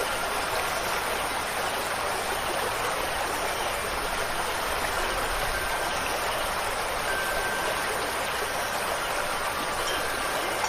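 Steady rushing water, like rain or a stream, with an even level throughout. Faint wind-chime tones ring now and then.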